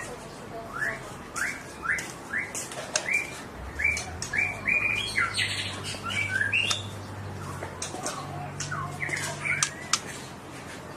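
A songbird singing a long string of short, rising chirped notes, about two a second, with a few sharp clicks among them.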